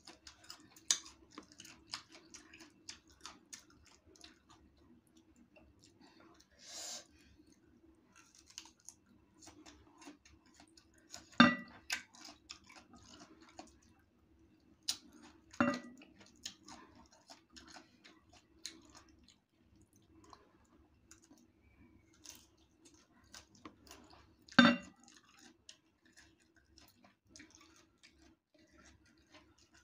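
Close-up chewing of raw green mango slices, with many small wet mouth clicks. Three louder short sounds stand out, about 11, 16 and 25 seconds in, over a faint steady hum.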